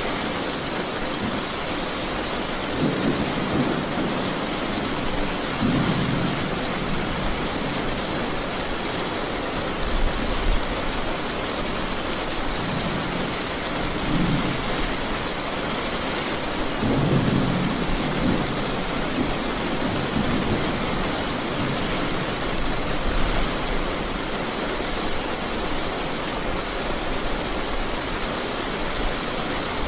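Steady rain falling, with several low rolls of thunder rumbling through it, the longest a little past the middle.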